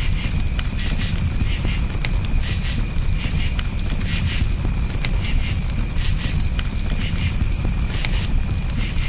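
Campfire crackling with scattered sharp pops over a steady low rumble, while crickets chirp in repeated pulsed trills throughout.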